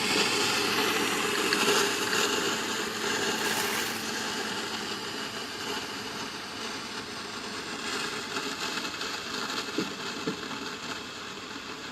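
A steady rushing, hissing noise that slowly fades a little, with two faint knocks near the end.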